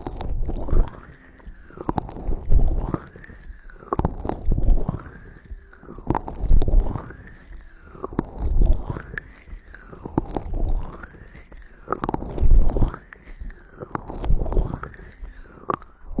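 Close-miked ASMR sounds: a slow rhythmic rubbing or sweeping right at the microphone about every two seconds, each stroke with a low thump, and scattered small clicks in between.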